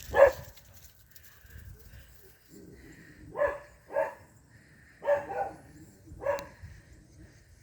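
Crows cawing: about six short, harsh calls, one right at the start and the rest in ones and twos through the middle.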